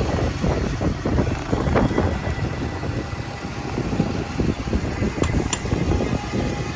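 Motorcycle running along a city street, with wind rushing and buffeting over the microphone.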